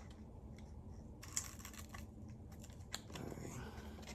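Faint, scattered clicks and light scuffing from things being handled, in two short clusters about a second in and near three seconds.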